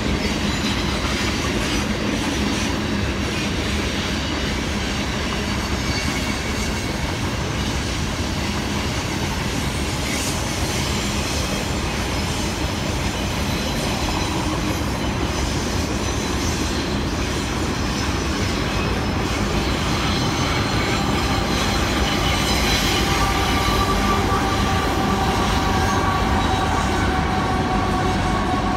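Long Union Pacific freight train of boxcars rolling past, a steady rumble and clatter of steel wheels on rail. About two-thirds of the way through it gets a little louder and steady high squealing tones join in.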